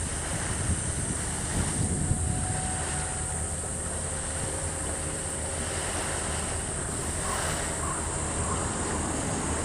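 Steady low drone of a boat's engine under wind noise on the microphone, with the wash of the sea.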